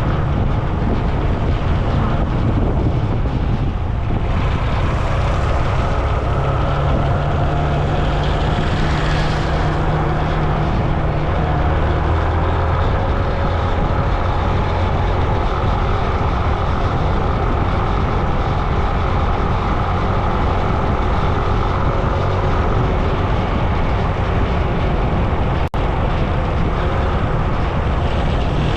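Continuous road noise of a moving vehicle on the road: a steady, loud low rumble with a humming drone over it and no change in pace. There is a brief dropout about 26 seconds in.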